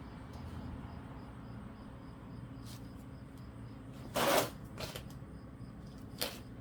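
A few short knocks and clicks, the loudest a brief clatter about four seconds in and a sharper click near the end, over a steady low hum.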